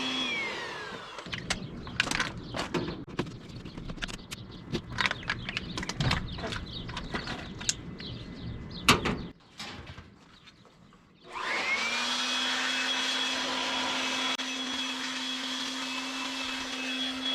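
An electric motor-driven machine switches off and its whine winds down. Irregular knocking and clattering follows for several seconds, then a brief quiet. About eleven seconds in the motor starts again with a rising whine and runs steadily.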